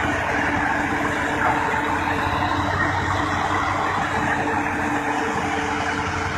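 A heavy vehicle's engine running steadily, with a constant whine over rumbling noise.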